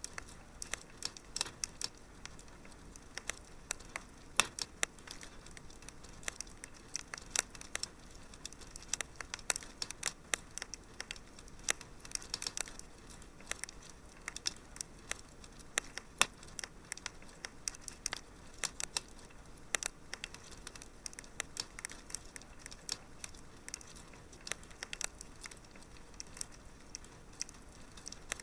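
Wood fire in a fireplace crackling: irregular sharp pops and snaps, several a second, over a soft steady hiss.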